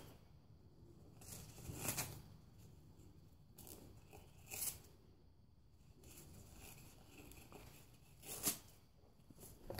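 Faint tearing and crunching of paper towel as a pet bird shreds it with its beak, three short bouts spread out with quiet between them.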